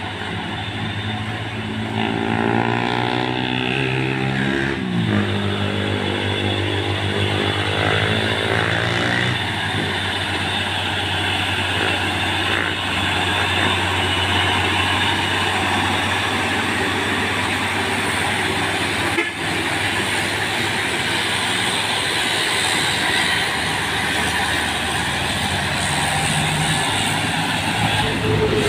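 Heavy diesel truck engine pulling away. Its pitch climbs twice in the first ten seconds, dropping between the climbs as it shifts up a gear, then it settles into a steady low drone of road traffic.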